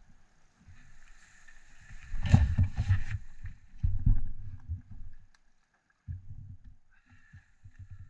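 Gusty wind buffeting the microphone in uneven low rumbling surges with short lulls between them, and a few sharp knocks about two to three seconds in.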